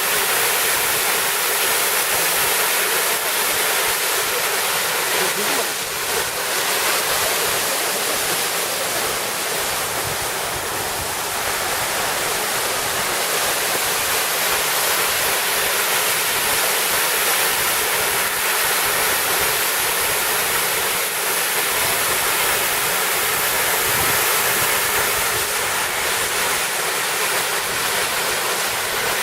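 Water running at an ice-covered waterfall, a steady rushing hiss.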